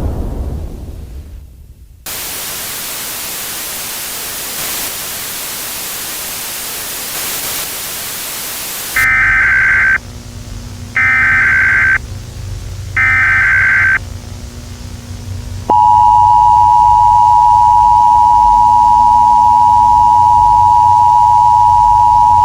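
A low rumble dies away, then several seconds of loud static hiss. Then come three one-second bursts of Emergency Alert System data-header tones, a second apart, followed by the steady two-tone EAS attention signal.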